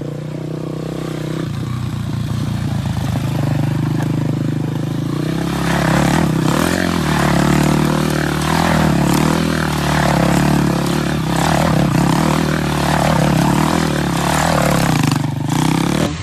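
Motorcycle engine running steadily, with a higher sound that rises and falls about once a second from about a third of the way in.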